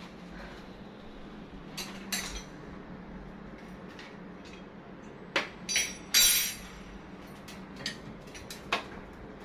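Scattered sharp clinks and knocks of hard objects striking each other, a handful of separate strikes with the loudest cluster about five to six and a half seconds in.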